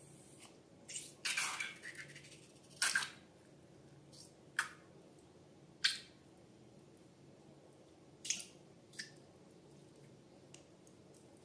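Slime squishing and squelching in short, irregular wet bursts, about eight in all, the longest about a second in.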